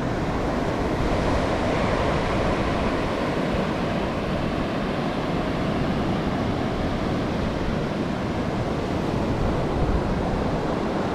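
Ocean surf washing steadily, mixed with wind.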